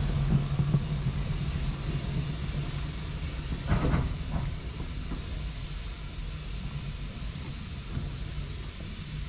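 Steam-hauled train's passenger coaches rolling away along the track, the wheels rumbling on the rails and fading as the last coach recedes, with a sharp clank about four seconds in.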